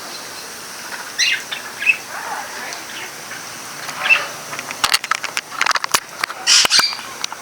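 A flock of small parakeets chirping in short high calls, then a rapid flurry of wings flapping and clicking about five seconds in.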